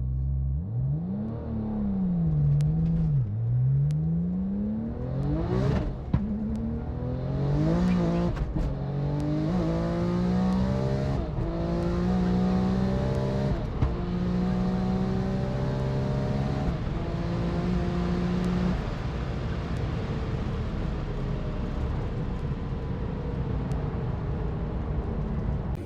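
A race car's engine revving up and down twice, then launching and accelerating hard through several gear changes, its note climbing between each shift before fading into a steady distant drone.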